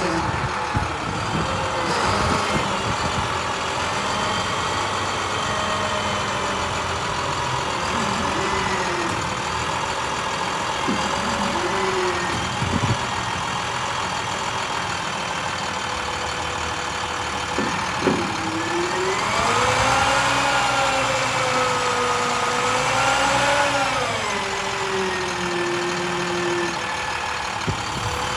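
MaxxForce DT diesel engine of an International 7400 utility truck running, its speed rising and falling twice in the latter part, with a few short knocks.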